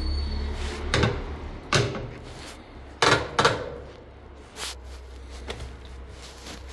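Washing machine running with a low steady hum, with several sharp knocks and thumps; the hum eases a little about four and a half seconds in.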